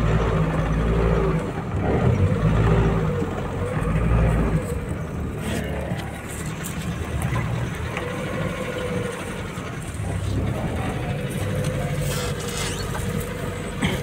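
Safari jeep's engine idling steadily.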